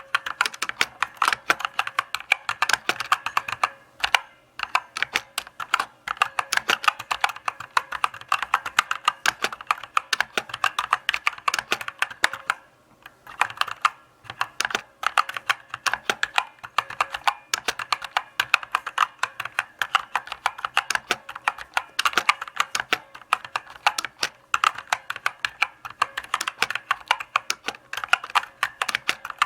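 Typing on a mechanical keyboard: a steady run of closely spaced key clicks, pausing briefly twice, at about four seconds and about thirteen seconds in.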